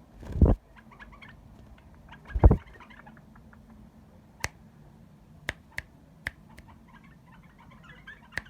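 Small pet bird in its cage: faint short chirps among sharp ticking clicks, with two loud bumps, one right at the start and one about two and a half seconds in.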